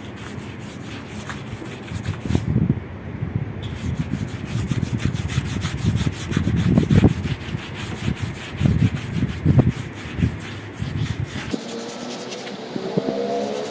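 An olive oil, vinegar and lemon juice finish being rubbed onto a rough-hewn old oak log: an uneven scrubbing with irregular knocks. Near the end the scrubbing gives way to a quieter, steadier sound.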